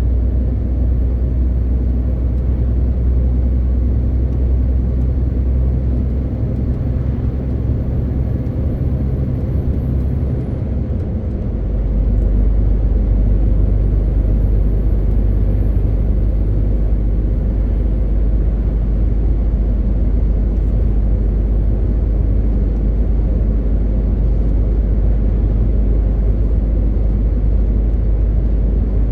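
MAN TGX 18.520 truck's straight-six diesel running under way: a steady low drone with road noise. About eleven seconds in the engine note changes, and it runs a little louder afterwards.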